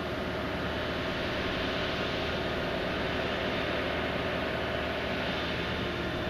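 Heavy diesel machinery of a dredging vessel running steadily, a constant low drone with a hiss over it.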